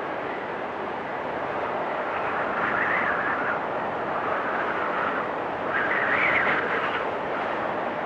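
Wind storm blowing steadily with a whistling tone, gusting louder twice, about three and six seconds in.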